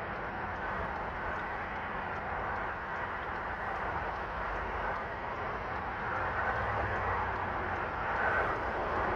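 Freight train cars rolling slowly past on the track, a steady rumble of wheels on rails that grows slightly louder after about six seconds.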